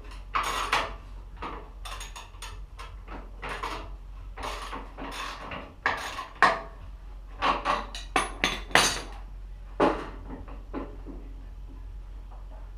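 Metal tools and parts clinking and clattering as they are handled, a quick irregular run of knocks and scrapes that thins out after about ten seconds.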